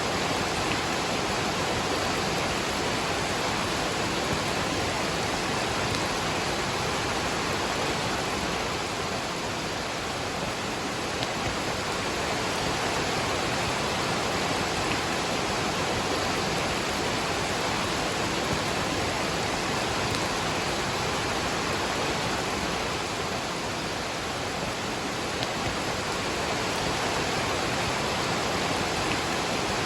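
Waterfall rushing steadily, mixed with falling rain.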